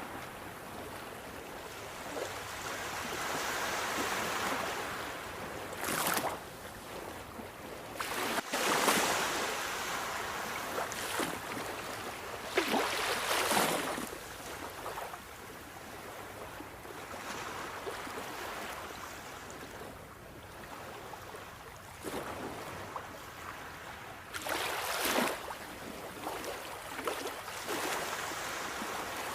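Sea waves washing onto a shore: a continuous rush of surf, with waves breaking louder several times.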